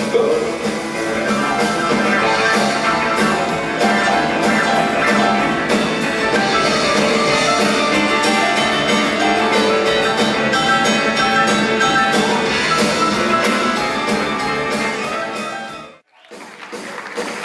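A live rock band playing an instrumental passage, with electric guitar and a drum kit. Near the end the sound cuts out abruptly and comes back brighter and different, as if at an edit.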